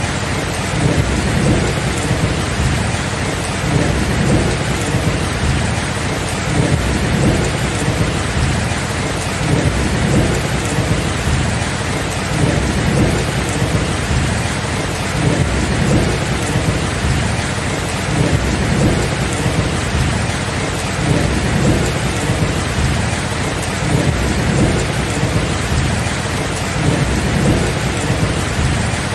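Steady rain falling, with a continuous low rumble of thunder underneath that swells and eases gently.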